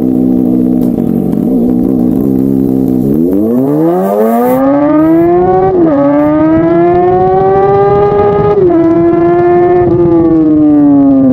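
Kawasaki ZX-6R inline-four sportbike engine running steadily for about three seconds, then revving up hard as the bike pulls away, its pitch dropping briefly at two upshifts, about halfway and about three quarters in, and easing off near the end.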